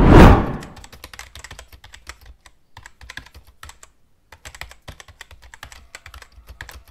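A short, loud whoosh at the start, then light, irregular clicking of computer keyboard keys being typed on.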